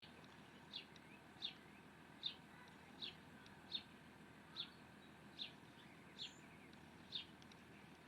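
A bird calling: a short, sharp, high chirp that drops slightly in pitch, repeated about every three quarters of a second, ten times.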